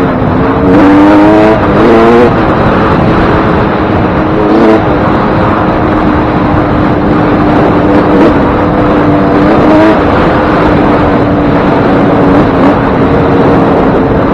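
Suzuki RM125 two-stroke motocross engine, just rebuilt with a new piston ring and wrist pin, revving up in steps over the first couple of seconds and then holding steady revs under way.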